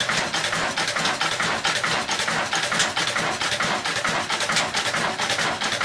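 Old Ruston Hornsby-type 'desi' diesel engine, Pakistani-made, running steadily with an even, rapid beat of several firing strokes a second while it drives a chakki flour mill.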